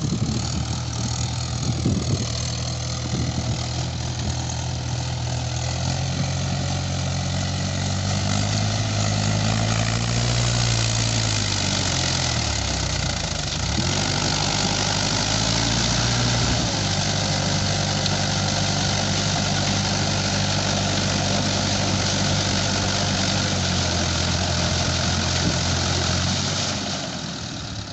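Tractor engine revving hard under load while working to get out of deep mud. The pitch climbs, sags and recovers about halfway through, holds high, then drops back near the end.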